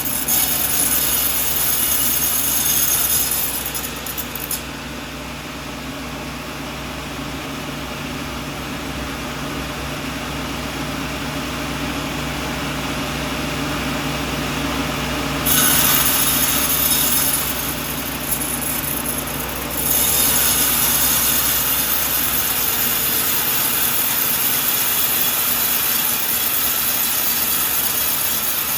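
Sawmill blade cutting a coconut log over the steady running of the mill's motor. The high cutting hiss falls away from about four seconds in and is back about fifteen seconds in; after a brief dip it holds again from about twenty seconds.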